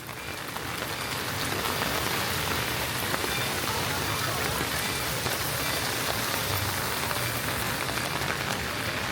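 Steady rain falling, an even hiss with scattered drop ticks, fading in over the first second or so.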